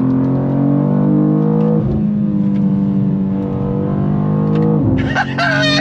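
2023 BMW M2's twin-turbo inline-six accelerating hard at full throttle, heard inside the cabin. The engine note rises steadily and drops twice, at quick upshifts of the 8-speed automatic about two and five seconds in, then climbs again. Part of the cabin sound is engine noise piped in through the speakers.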